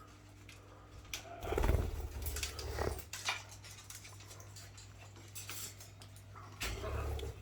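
Pet parrots calling in short squawks and chirps, with spells of low rumbling bumps about a second and a half in and again near the end.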